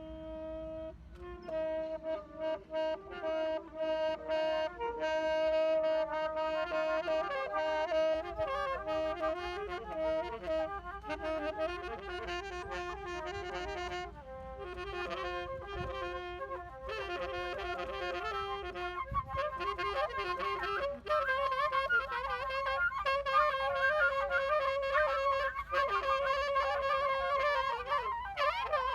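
Two woodwind instruments improvising together in a live jam: held notes and winding melodic lines that grow louder and busier in the second half.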